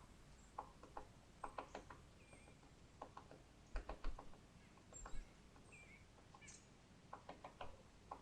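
Woodpecker tapping on a tree, coming in short bursts of a few quick knocks several times over, faint and distant. Small birds chirp faintly now and then.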